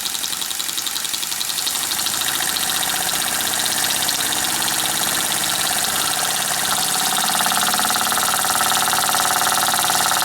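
Small toy live steam engine running fast, its exhaust chuffing in a rapid even beat that grows louder from about two seconds in.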